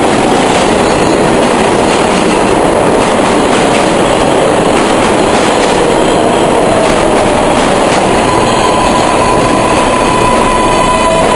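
R142A subway train arriving and braking, loud with rail noise and wheel squeal. A whine falls in pitch midway, and a steady high tone sets in about eight seconds in.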